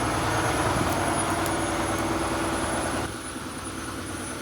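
Heavy tow truck's engine running steadily with a low hum, dropping in level about three seconds in.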